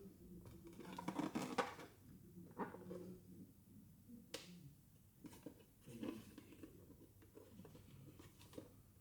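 Hands handling small plastic toy pieces and packaging: scattered light clicks, taps and crinkles. There is a cluster of them about a second in and a single sharp click about four seconds in.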